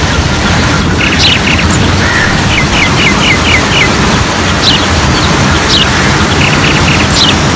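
Several birds calling: sharp down-slurred whistles and a quick run of about six short chirps, over a loud, steady low rumble of noise.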